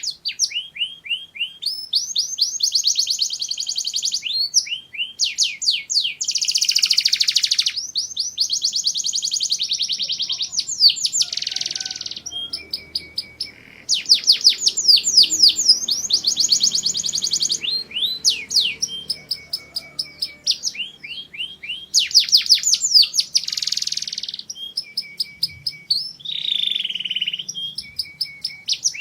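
Domestic canary singing a long, continuous song of rapid trills: fast runs of repeated sweeping notes, buzzy rolls and short whistled phrases, changing from one tour to the next every second or two.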